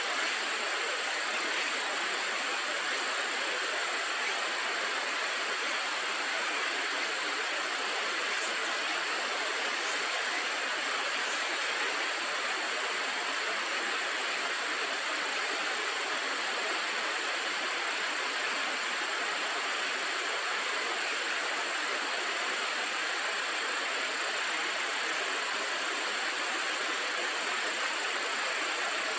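Steady rush of a river's flowing water, unchanging, with a thin steady high whine above it.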